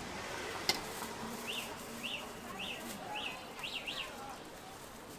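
Six short high chirps, each rising then falling in pitch, about half a second apart with the last two close together, like a small bird calling over steady market background noise. A single sharp click comes just before them.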